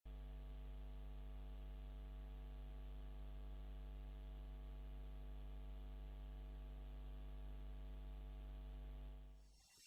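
Steady low electrical hum with a stack of overtones, starting suddenly and fading out near the end.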